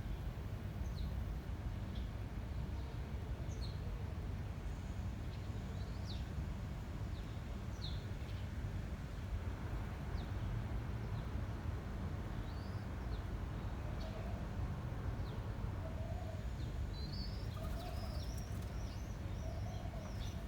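Small birds chirping over a steady low rumble of wind on the microphone. Short high chirps come every second or two, a quicker run of twittering near the end, and a lower call repeats four times in the second half.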